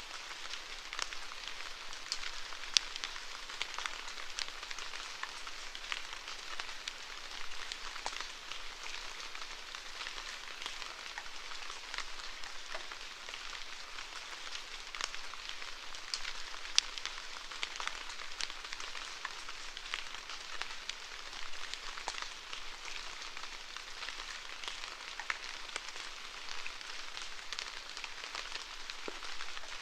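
Steady rainfall: an even hiss of rain with many close, sharp drop taps scattered through it.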